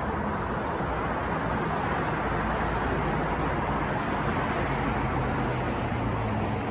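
City street traffic noise: a continuous, even wash of passing vehicles with a steady low hum underneath.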